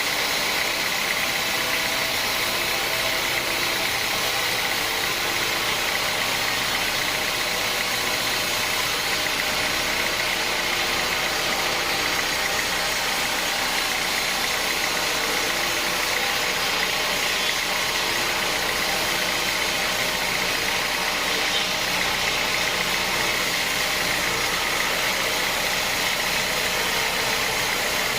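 Sawmill machinery running steadily: an unchanging engine-like drone with a steady high whine over it.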